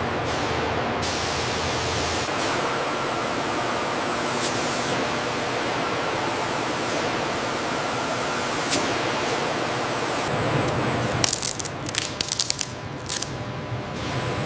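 A steady hiss, broken about eleven seconds in by a run of short, sharp hisses and clicks before it settles again.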